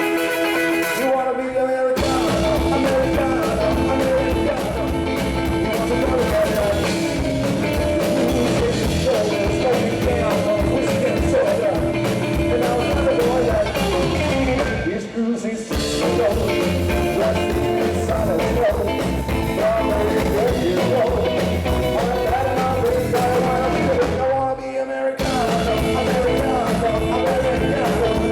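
Rock and roll band playing a song with singing. A guitar plays alone at first; the drums and bass come in about two seconds in, and the band briefly drops out twice, about halfway through and near the end.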